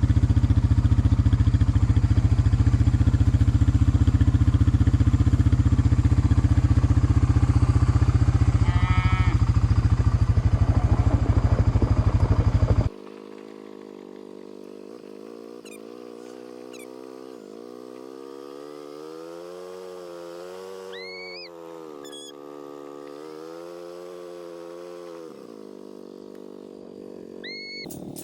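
Four-wheeler engine running steadily and loudly, close to the mic. About halfway through it cuts off abruptly to a quieter engine sound that rises and falls in pitch, with a few short high chirps.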